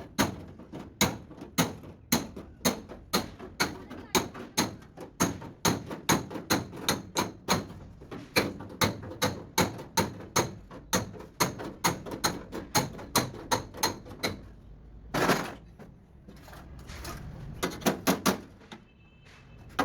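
Rapid hammer blows on the steel sheet-metal panels of a Mazda T3500 truck cabin being beaten into shape, about three strikes a second. About 15 s in there is a short, harsher burst, followed by a few more strikes.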